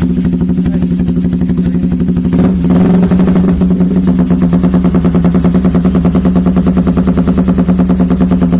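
Motorcycle engine running through an aftermarket SXperformance exhaust, a steady pulsing idle with a brief rev about two and a half seconds in.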